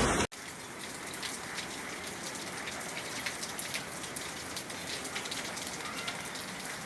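Steady rain falling, with many individual drops ticking sharply on a hard surface. A loud rush of water cuts off abruptly right at the start.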